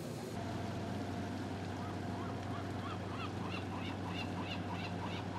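A bird calling in quick repeated chirps, two to three a second, starting about two seconds in, over a steady low machine hum.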